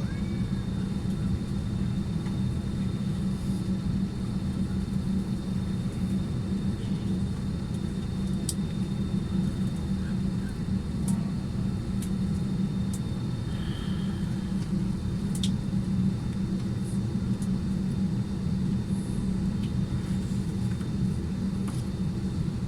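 Steady low hum inside a parked airliner's cabin, from the cabin ventilation running, with a faint constant high tone and a few faint clicks.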